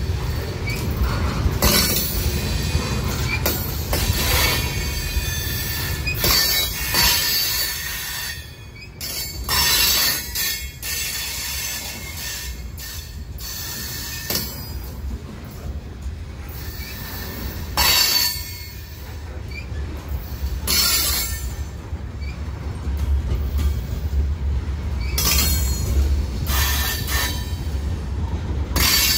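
Freight cars (covered hoppers and a tank car) rolling past close by: a steady low rumble of steel wheels on rail, with wheel squeal screeching on and off over it.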